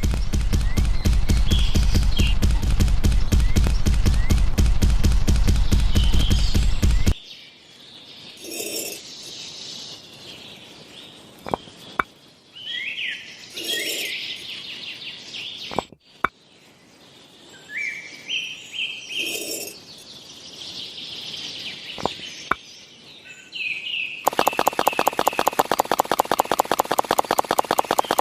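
Small engine running with rapid, even firing pulses, cutting off sharply about seven seconds in and starting again near the end. In the quieter stretch between, birds chirp and there are a few sharp clicks.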